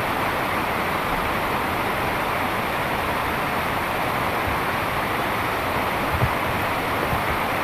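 Heavy rain falling steadily, an even wash of noise with one faint low thump about six seconds in.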